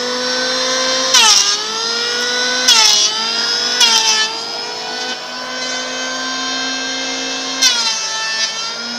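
Electric wood planer running with a steady high whine, its motor pitch dipping under load four times as it bites into wood, each cut giving a short burst of rough cutting noise.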